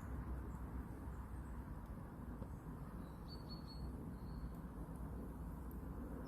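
Faint outdoor ambience with a low rumble, and a few short, high bird chirps in a quick run a little past halfway.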